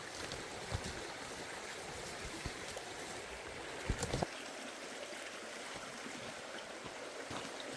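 Forest stream flowing steadily. A short cluster of sharp knocks comes about four seconds in.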